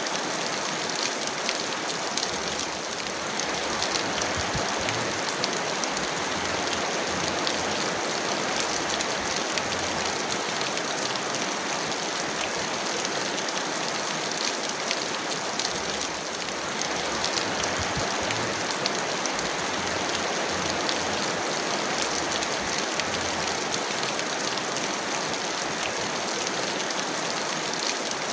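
Heavy, steady rain: a dense, even hiss of falling water with countless small drop ticks.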